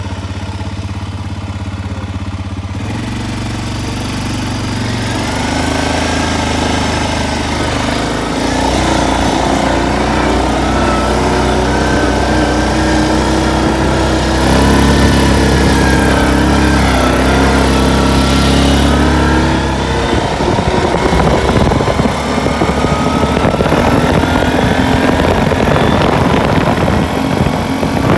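A vehicle engine running steadily on the move. Its pitch shifts in steps, and in the last third the sound turns rougher as the pitch climbs.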